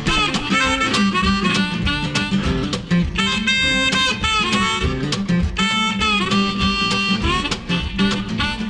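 Background music: a harmonica playing a bluesy instrumental passage over acoustic guitar, with no singing.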